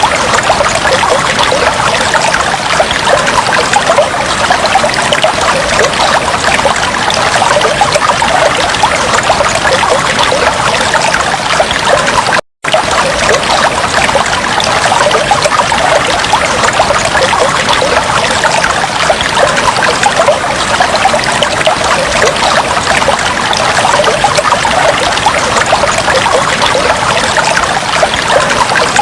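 Water in a fish tank trickling steadily, with a momentary break to silence about twelve seconds in.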